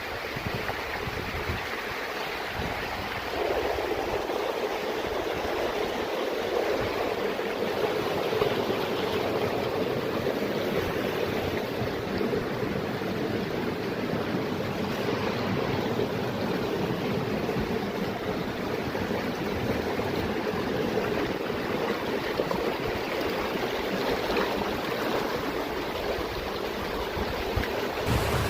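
Running water of a mountain stream, a steady rush that grows louder about three seconds in.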